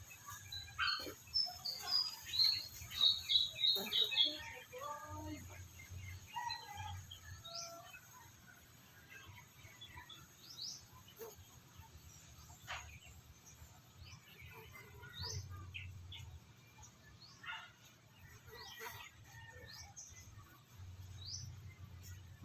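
Birds chirping and calling, a quick run of high chirps loudest in the first few seconds, then scattered single chirps.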